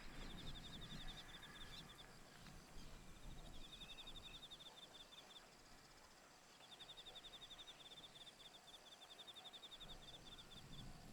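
Faint insect trilling: rapid pulsed chirps in three runs of a few seconds each, over a low rumble of wind.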